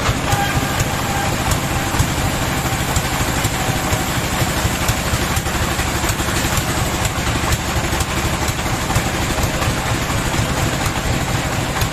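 Sawmill machinery running steadily: a low, engine-like drone with a fast pulsing beat.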